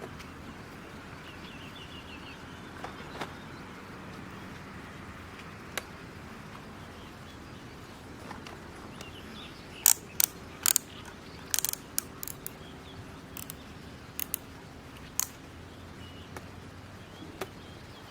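A run of sharp clicks and taps, clustered from about ten to fifteen seconds in, over a steady outdoor background hiss, with a faint bird chirp near the start.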